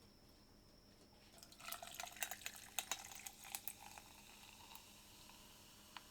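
Liquid poured or splashing for about two and a half seconds: a flurry of small splashes and drips, with one faint click near the end.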